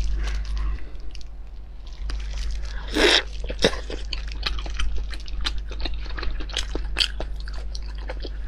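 Close-miked biting into and chewing a soft steamed starch-and-meat dome (Northeastern Chinese da menzi): wet, sticky mouth clicks and smacks. The loudest bite comes about three seconds in, with steady chewing after.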